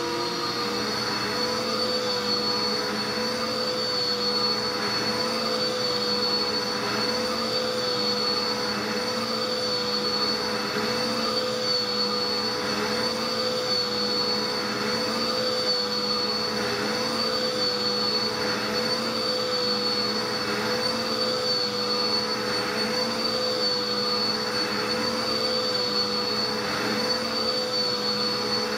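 Dirt Devil vacuum cleaner running steadily with a high whine, a faint surge coming back about every second and a half as it is pushed back and forth over carpet.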